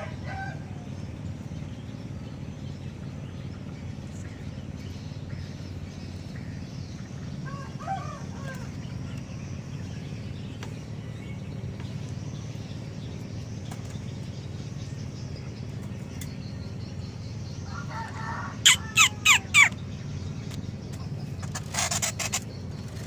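Bird calls over a steady low hum: a short call about 8 seconds in, then four loud, sharp chirps in quick succession near the end, followed by one more loud call.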